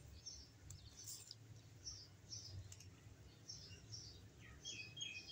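Near silence, with faint birds chirping in the background: short high chirps about every half second, and a quicker run of chirps near the end.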